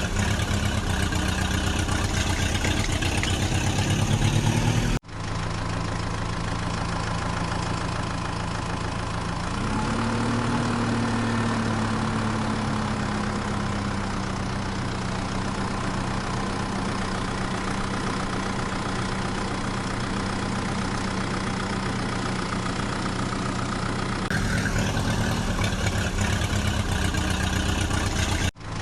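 Heavy vehicle diesel engine running at idle, its pitch rising in the first few seconds. The sound cuts abruptly about five seconds in to a steady idle that swells briefly, then cuts again near the end.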